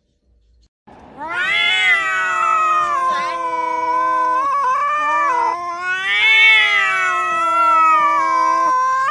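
A cat yowling: one long, loud drawn-out call that starts about a second in, rising and falling in pitch, with two brief breaks in the middle.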